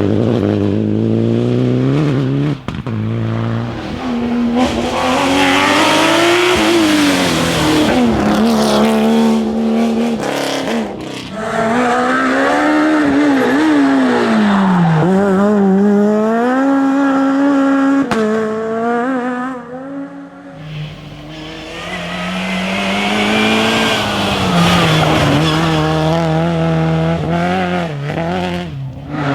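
Rally cars driven hard on a special stage, one after another: engines revving up with quick drops in pitch at each upshift, then easing and climbing again on the way through corners.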